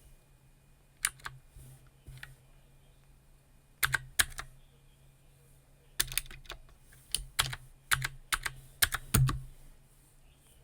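Computer keyboard typing in short, irregular runs of keystrokes with pauses between them. There are a few scattered keystrokes at first, then a quicker run in the second half.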